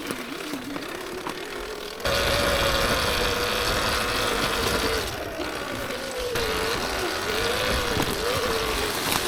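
Surron Ultra Bee electric dirt bike riding off, its motor whine rising and falling with the throttle over tyre and trail noise. It gets suddenly louder about two seconds in as the bike pulls away.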